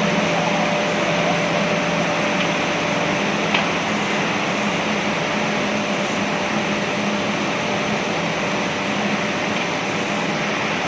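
Steady drone of glass tempering furnace machinery, a fan-like rush with a low hum and a faint steady whine. A single small click comes about three and a half seconds in.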